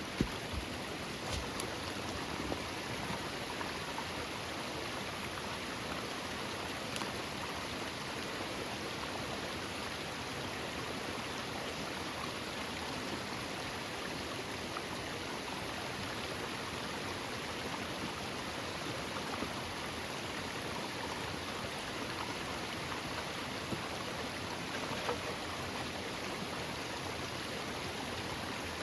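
Steady rush of a running stream, with a few faint clicks in the first few seconds.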